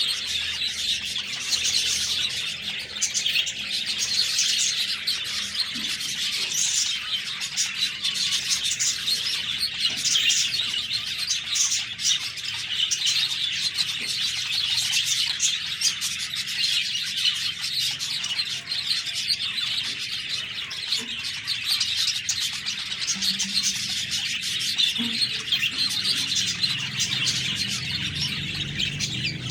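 A flock of budgerigars chirping and chattering, many birds at once, without a pause.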